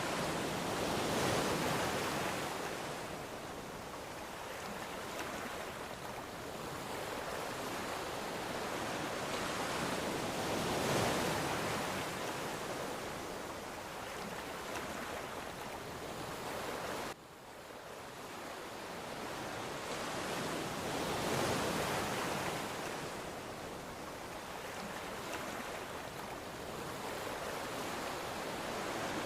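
Ocean surf: waves breaking and washing ashore, swelling and easing roughly every ten seconds, with a brief sudden dip in level a little past halfway.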